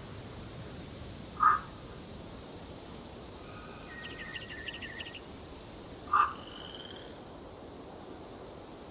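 Forest birds calling over a steady background hiss: two loud, short calls about five seconds apart, a softer trill of quick repeated high notes between them, and a thin high whistle just after the second call.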